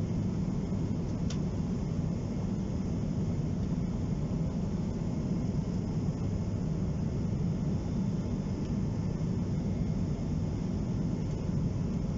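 Steady cabin drone of a Boeing 777-200 airliner in flight: a low, even rumble of engine and airflow noise. A faint click comes about a second in.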